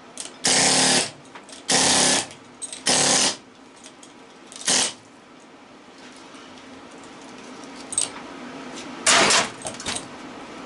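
Pneumatic air chisel run in short bursts, about half a second each, working the copper windings out of a scrap electric motor: three bursts close together, a shorter one, then one more after a pause.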